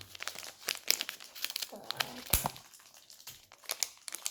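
Plastic packaging being crinkled and torn open by hand: irregular crackling rustles.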